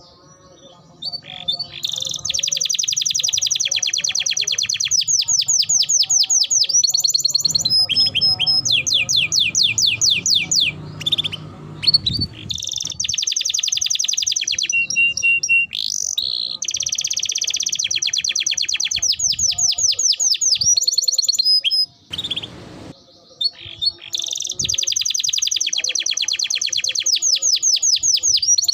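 Domestic canary singing long rolling trills: extended runs of fast, evenly repeated high notes, broken by short pauses and one longer pause about two-thirds of the way through.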